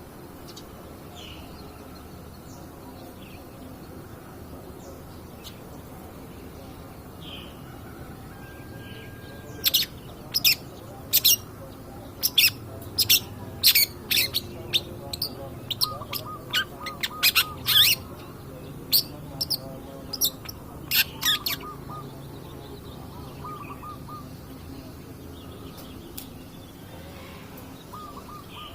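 Cendet (long-tailed shrike) calling: a few soft scattered chirps, then from about ten seconds in a run of loud, sharp chattering notes lasting about twelve seconds, with a quieter repeated trilled note among them, before it drops back to soft chirps.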